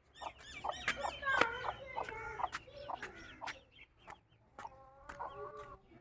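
A mother hen clucking among a large brood of chicks peeping, with a dense burst of chirping in the first couple of seconds.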